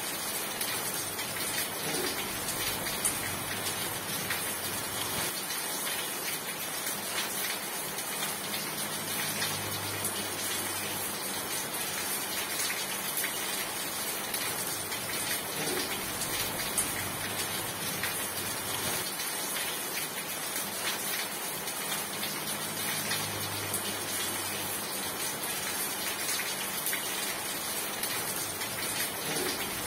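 Steady rain: a dense, even patter with many small drops ticking.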